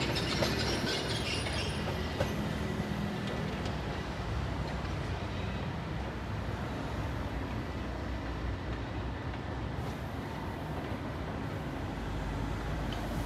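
A train running on the tracks with a steady low rumble.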